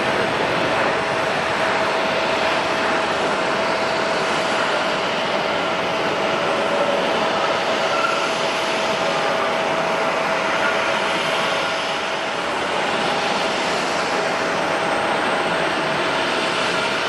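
Jet airliner engines running steadily: an even rush of noise with a steady whine held through it.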